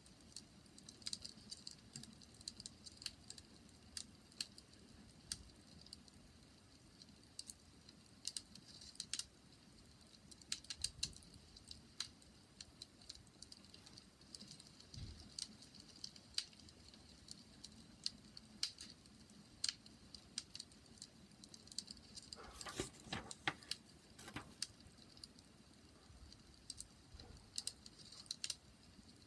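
Wood fire crackling faintly, with irregular sharp pops and snaps and a short, fuller flurry of crackles about three-quarters of the way through.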